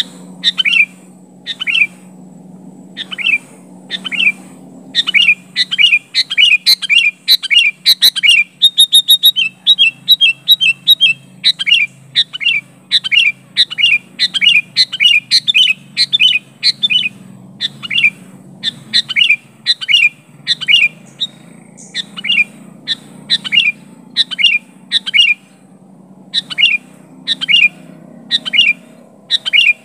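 Sooty-headed bulbul calling continuously in short, bright, repeated phrases, with a quick run of rapid notes about nine to eleven seconds in. A faint steady low hum lies underneath.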